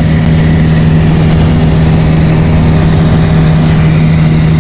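Light aircraft's piston engine and propeller running steadily in level flight: an even, unchanging drone.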